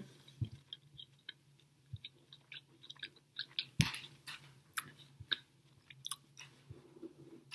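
Close-up chewing and biting of a Subway sandwich: soft, irregular mouth clicks, with a sharper bite just before four seconds in.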